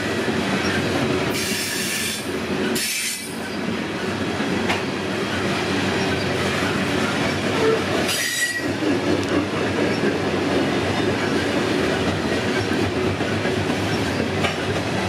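Loaded coal hopper cars of a freight train rolling past on steel rails in a steady clatter, with short high wheel squeals about three times.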